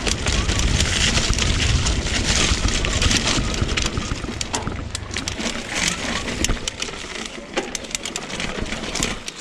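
Mountain bike rolling fast over a rough dirt and gravel trail: tyre crunch on loose ground with many rattles and knocks, over a heavy low rumble that eases about two thirds of the way through.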